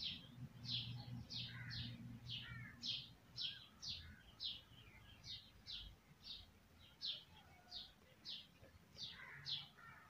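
A small bird chirping faintly and repeatedly, about two short, slightly falling chirps a second.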